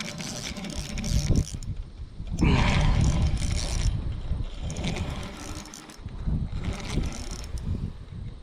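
Fishing reel being cranked as a freshly hooked bass is played in, with low rumbling wind and handling noise on the microphone and a loud rushing noise about two and a half seconds in, lasting over a second.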